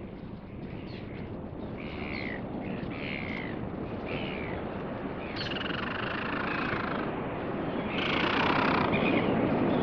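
Seabird calls over a steady rush of wind: several short calls falling in pitch, then two longer calls about five and a half and eight seconds in.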